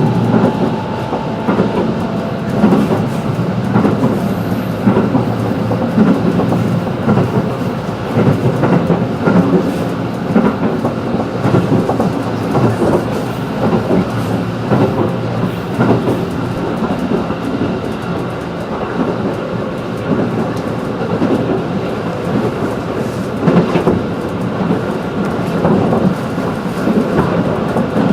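JR 211 series electric train running at speed, heard from inside the car: a steady rumble of wheels on rail with irregular clicks and knocks from the track.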